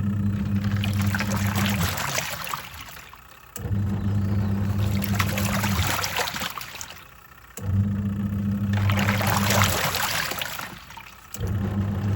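Twin-tub washing machine's wash tub agitating work clothes: the pulsator motor hums for about two seconds, pauses, and starts again about every four seconds, four times, with water sloshing throughout.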